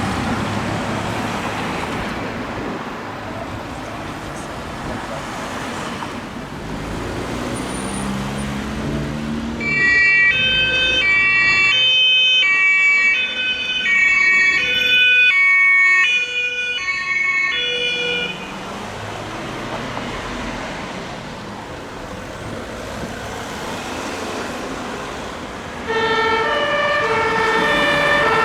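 Emergency vehicles on a response run with a German two-tone siren (Martinshorn), alternating steadily between two pitches, over vehicle engine and road noise. The horn sounds for several seconds from about a third of the way in, then stops, and a two-tone horn starts again near the end.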